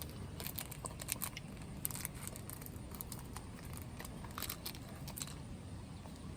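Irregular crinkling and clicking of plastic packaging and containers being handled, in small clusters of short sounds.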